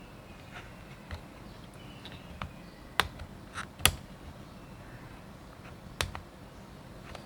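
Sharp clicks and taps of small tools and parts being handled on a Nikon D90 camera body during disassembly, with three louder clicks about 3, 4 and 6 seconds in and fainter ones between.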